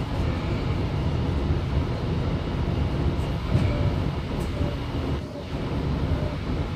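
Steady running rumble of a Sydney Tangara electric train in motion, heard from inside the passenger carriage. The noise eases briefly about five seconds in.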